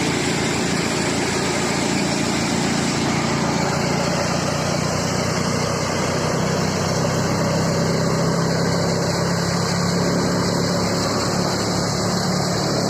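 John Deere 5305 tractor's diesel engine running steadily at an even speed, with a fast, even pulsing beat.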